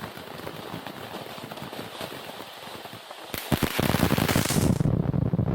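Consumer firework cake firing: a steady crackle of small pops, then about three and a half seconds in a few sharp bangs and a loud burst of dense crackling.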